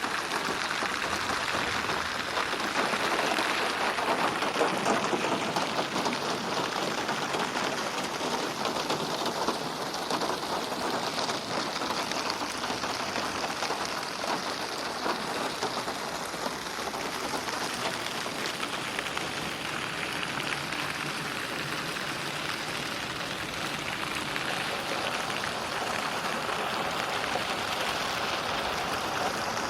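Steady rain falling in a dense, even patter, swelling a little in loudness a few seconds in and easing off through the middle, processed as 8D audio so it sweeps around the listener.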